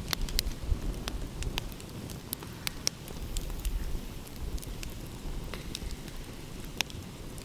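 Wood fire crackling, with irregular sharp pops and snaps scattered through, over a steady low rumble.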